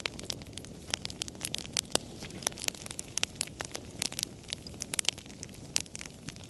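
Wood fire crackling: irregular sharp pops and snaps, several a second, over a low steady rush of the flames.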